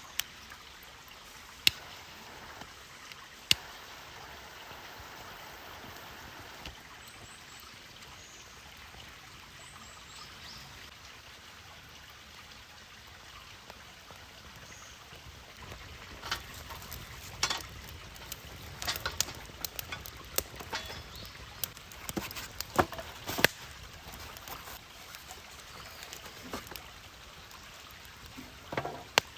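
Sirloin steak sizzling over a campfire: a steady hiss with scattered sharp clicks and pops, two early on and a busy cluster in the second half.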